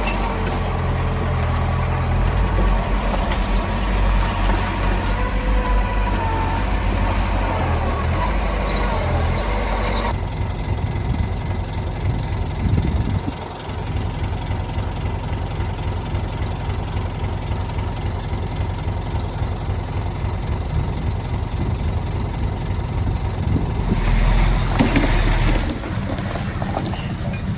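Diesel engine of heavy earthmoving machinery working, with a wavering whine over the engine for the first ten seconds. About ten seconds in it changes abruptly to lower, steadier running, then grows louder again near the end.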